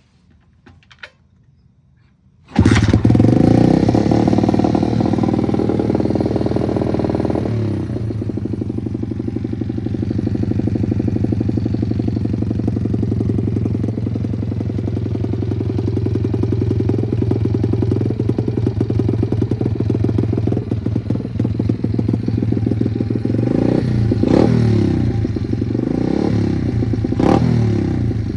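110cc pit bike single-cylinder engine with a Nibbi carburettor and aftermarket silencer starting suddenly about two and a half seconds in, running at a fast idle, then settling to a lower steady idle after about five seconds. Near the end the throttle is blipped a few times, the exhaust note rising briefly each time.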